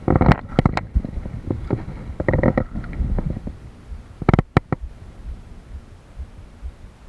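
Kayak paddling: paddle strokes splashing and sloshing water, with sharp knocks. The strokes come in bursts every couple of seconds.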